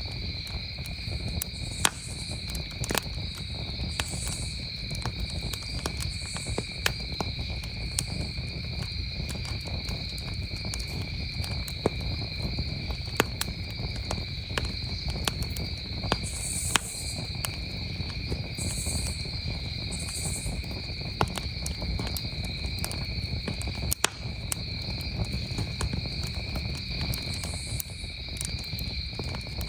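Campfire crackling, with sharp pops scattered irregularly every second or so, over a steady high trill of crickets and a low rumble.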